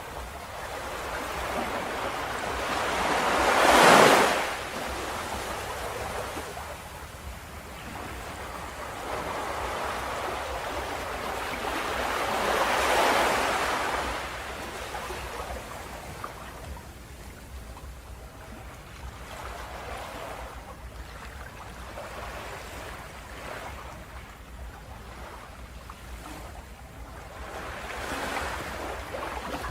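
Ocean waves breaking on a beach: a steady rush of surf with swells building and crashing about 4, 13 and 28 seconds in, the first crash the loudest.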